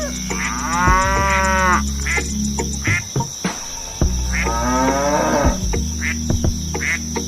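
Cattle mooing: two long, drawn-out calls, one starting about half a second in and the other about four seconds in.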